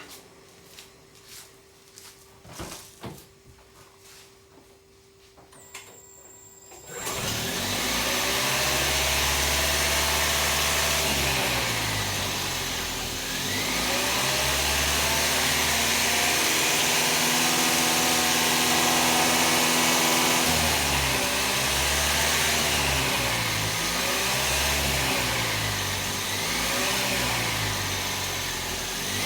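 Intake noise of a Toyota Aqua's 1.5-litre four-cylinder petrol engine breathing through a Zero1000 aftermarket air cleaner at full throttle. After several seconds of faint clicks, the engine comes in loudly about a quarter of the way through. Its pitch then holds steady for a few seconds at a time, and rises and falls several times.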